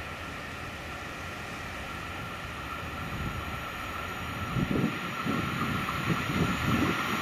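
Freight train approaching: an ÖBB electric locomotive hauling silo wagons, its steady hum and running noise growing louder. A low uneven rumble comes in from about four and a half seconds in.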